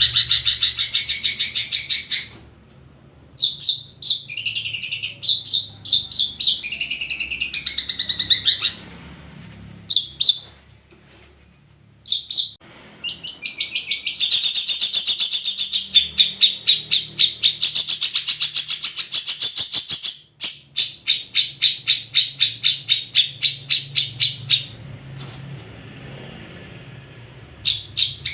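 Long-tailed shrike (cendet) singing in the rapid, chattering ombyokan style: fast runs of high notes in bursts of a few seconds, broken by short pauses. In the latter part the song turns to a series of separate sharp notes, about three a second.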